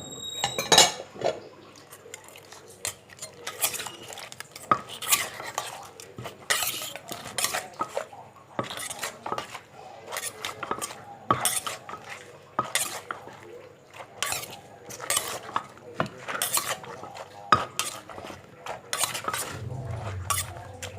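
Utensils knocking and scraping in a mortar as a pounded seafood salad is mixed and turned: a steady run of irregular clacks and scrapes.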